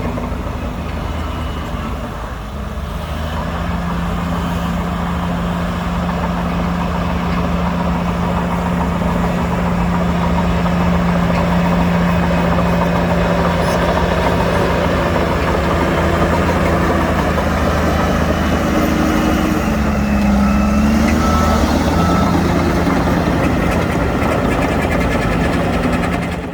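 Heavy diesel earthmoving machinery, bulldozer and dump truck, running steadily under load with a constant low engine drone.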